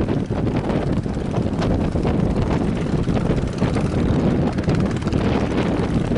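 Strong wind buffeting the microphone: a loud, steady rumbling rush with no let-up.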